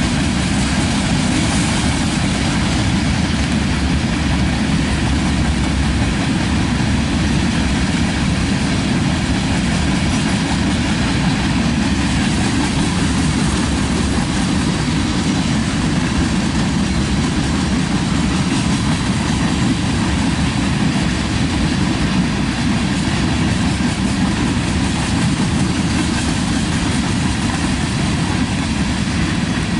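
Tank cars of a crude oil freight train rolling past: a steady low rumble of wheels on rail.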